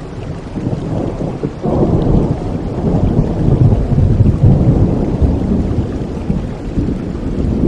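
Rolling thunder over steady rain. A deep rumble swells suddenly a little under two seconds in, peaks midway and slowly dies away.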